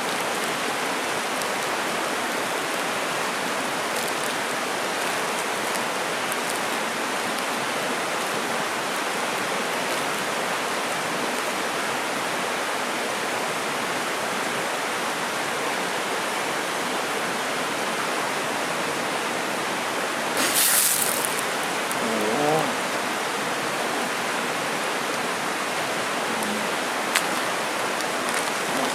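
Mountain river water rushing steadily over its bed. About twenty seconds in there is a brief burst of louder noise, followed by a short pitched sound, and one faint click near the end.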